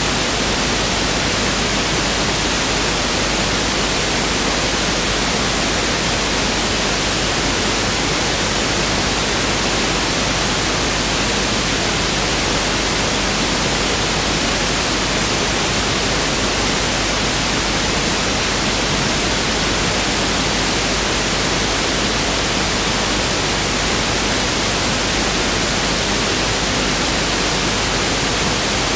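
Pink noise (1/f noise) test signal: a steady, unchanging hiss spread evenly across the whole range of pitches.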